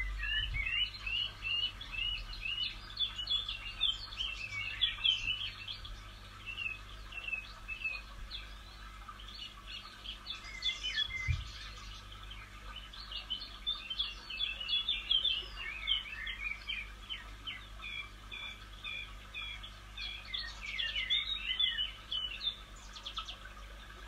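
Several songbirds singing, with rapid runs of short chirping notes that crowd together in busy stretches and thin out in between.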